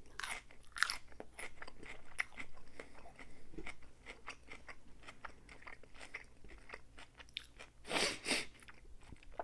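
Close-miked chewing of a mouthful of salad, with many small wet crunches and clicks. About eight seconds in comes a louder burst of crunching as the next forkful goes into the mouth.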